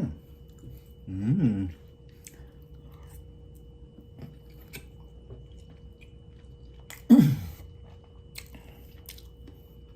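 Close-up chewing and eating of lomi noodle soup, with soft wet mouth clicks. It is broken by two short pleased moans, one about a second in and a louder one falling in pitch about seven seconds in.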